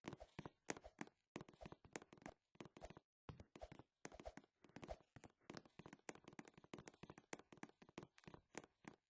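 Soft, irregular taps and clicks, several a second, with a short break about three seconds in.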